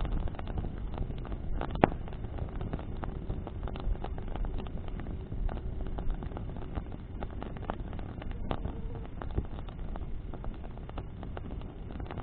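Bonfire of burning branches crackling steadily, with many small sharp snaps and one louder pop about two seconds in, over a low rumble of wind.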